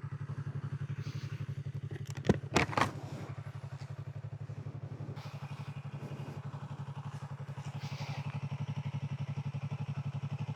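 Sportbike engine idling steadily with an even low pulse, and a few sharp clicks or knocks about two and a half seconds in.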